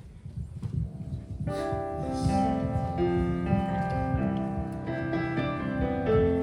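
Piano playing a slow introduction in held chords, starting about a second and a half in, after a low rumble.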